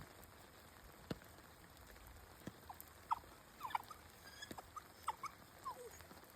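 Shiba Inu giving a run of faint, short high whimpers that slide up and down in pitch, bunched together in the middle and latter part, with a few scattered light taps.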